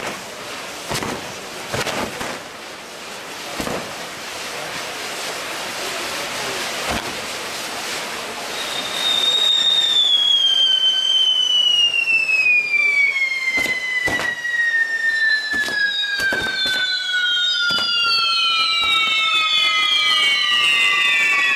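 Maltese ground fireworks on a pole-mounted wheel: fountains hissing, with sharp cracks and pops. About nine seconds in, a loud whistle starts high and glides steadily down in pitch, and several more falling whistles join it as the wheel spins.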